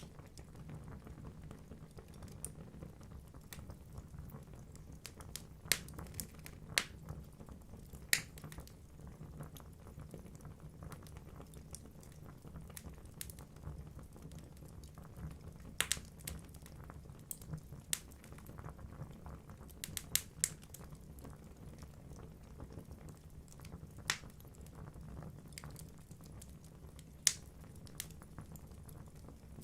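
Wood fire burning in a fireplace: logs crackling over a low steady rumble, with sharp pops every few seconds.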